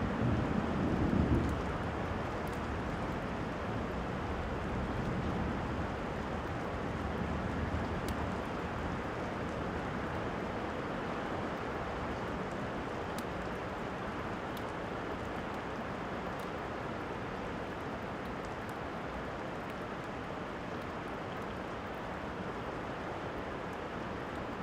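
Steady rain, with the tail of a thunder rumble dying away in the first second or so. A few faint crackles from a fireplace sound over the rain.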